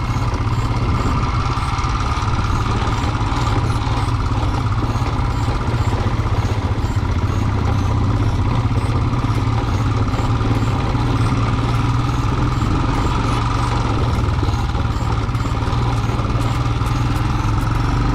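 Single-cylinder Royal Enfield motorcycle engine running steadily, a constant low rumble with no change in pace.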